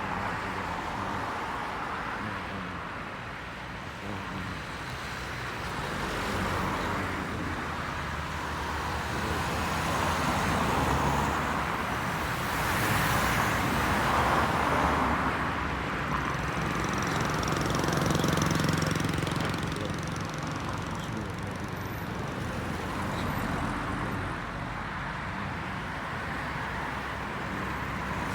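Road traffic: a steady noise that swells and fades as vehicles pass, loudest a little past the middle.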